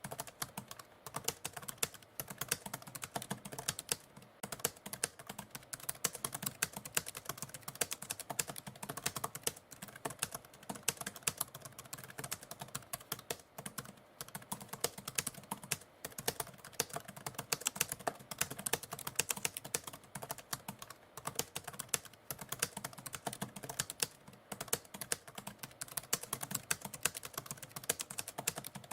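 Typewriter keys being struck in a rapid, continuous run of clicks, like steady typing.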